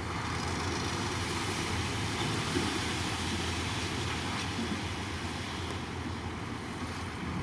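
Komatsu D53 bulldozer's diesel engine running steadily, a low hum under a wide noisy haze.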